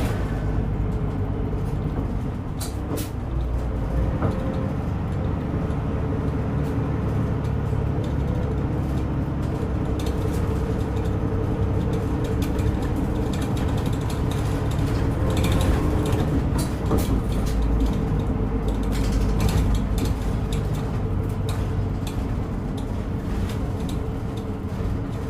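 Route bus running, heard from inside the passenger cabin: a steady engine drone with scattered rattles and clicks, swelling slightly in the middle.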